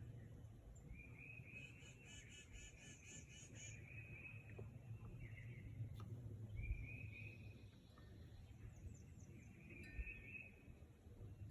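Faint outdoor animal calls: short buzzy trills, each about a second long, repeating every few seconds, with a faster pulsed call of about four notes a second near the start, over a low rumble.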